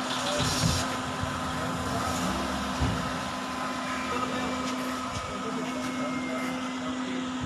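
Car engine idling steadily, with indistinct voices of people nearby and a couple of low thumps in the first three seconds.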